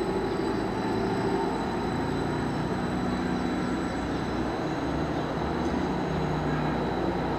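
A train on the move: a steady rumble with a few held tones that step in pitch now and then.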